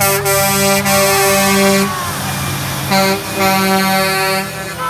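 Truck air horn blowing two long blasts, about two seconds each with a short gap between, several steady tones sounding together, over a low engine hum.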